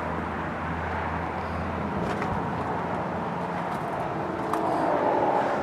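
Steady engine hum under outdoor background noise; the low hum drops away about two seconds in.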